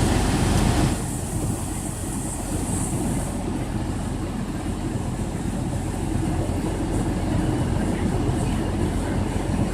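Steady low rumble of a running vehicle engine, with a louder hiss in the first second that cuts off abruptly.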